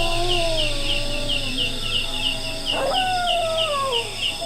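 Two long wailing cries with overtones, each sliding down in pitch: the first slowly from the start, the second breaking in sharply about three seconds in. Under them runs a steady high chirping, about three to four chirps a second, and a low hum.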